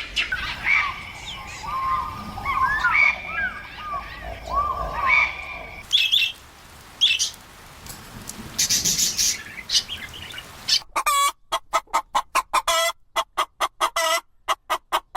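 Chickens calling: many short, high chirps for the first half. From about eleven seconds in comes a fast run of short repeated calls, several a second.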